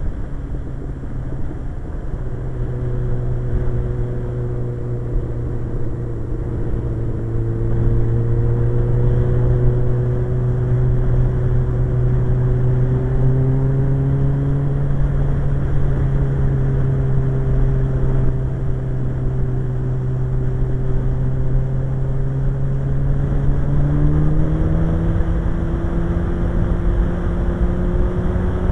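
Suzuki GSX-R 1100 inline-four engine running at road speed, with wind rumbling on the microphone. The engine note dips slightly at first, swells a little, then rises in pitch near the end.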